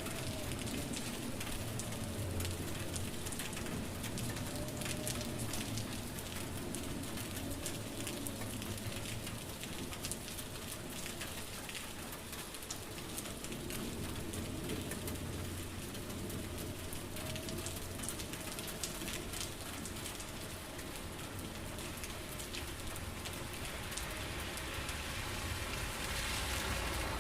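Steady rain falling, a dense even hiss with many individual drop hits ticking through it.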